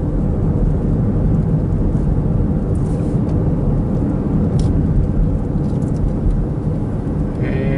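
Steady low rumble of a car's engine and tyres on pavement, heard from inside the cabin while driving.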